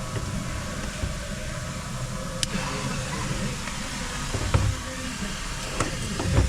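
Plastic-welding torch running with a steady hiss and low rumble, with a few sharp ticks and light knocks from the work.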